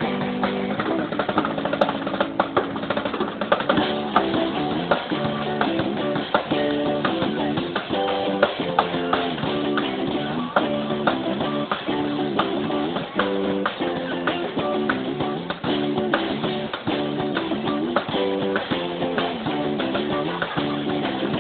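Live guitar and drum kit playing a song: a repeating guitar riff over a steady drum beat.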